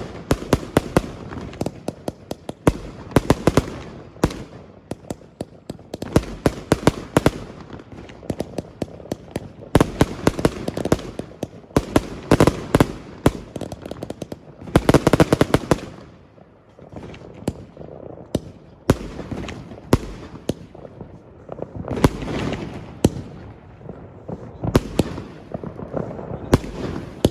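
Fireworks going off: rapid volleys of sharp bangs and crackles in clusters every few seconds, easing off briefly about two-thirds of the way through.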